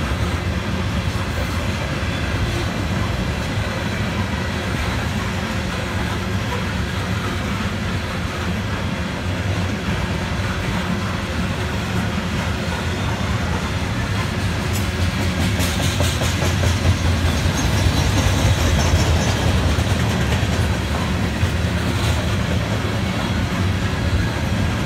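Coal train's open-top hopper cars rolling past, steel wheels on rail making a steady rumble and clatter.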